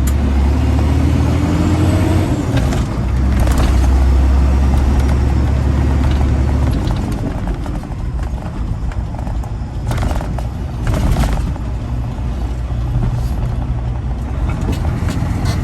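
Freightliner Classic XL semi truck's diesel engine running while driving in traffic, a steady low drone that changes about seven seconds in. Two short noisy bursts come about ten and eleven seconds in.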